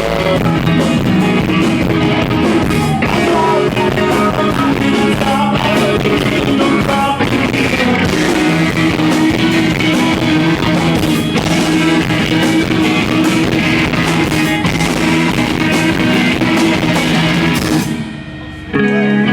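Live emo/math-rock band playing loud: distorted electric guitars, drum kit and sung vocals, recorded from the audience on a handheld iPod. About 18 seconds in the full band drops out briefly, then sustained guitar notes ring on.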